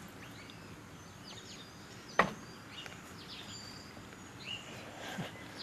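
Birds chirping in short, scattered calls over faint outdoor background noise, with one sharp click about two seconds in.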